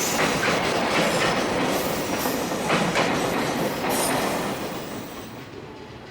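Long freight train of container wagons rolling past at speed, its wheels knocking over rail joints in a continuous clickety-clack with some wheel squeal. The sound falls away about five seconds in.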